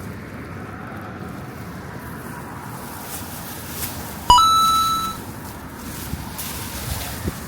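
A single bright metallic ding about four seconds in, ringing out for under a second, over steady background noise.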